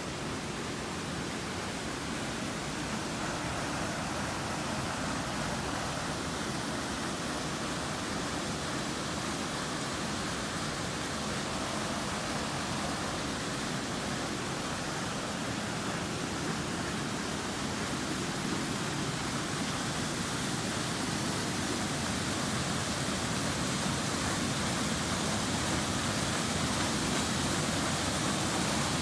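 Waterfall water rushing in a steady, even roar of noise, growing slightly louder toward the end.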